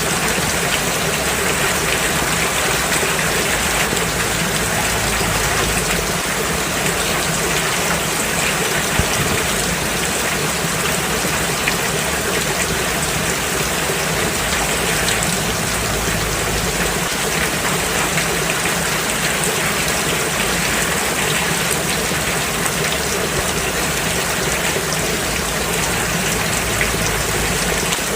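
Steady rain falling on a road: a dense, even hiss of drops, with a couple of slightly louder drop ticks.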